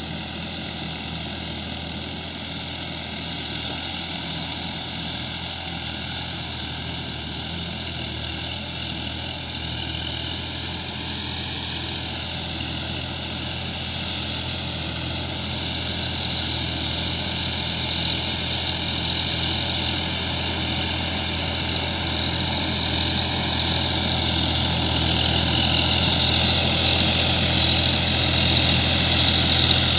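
Sonalika DI-50 RX tractor's diesel engine running steadily, growing gradually louder over the second half.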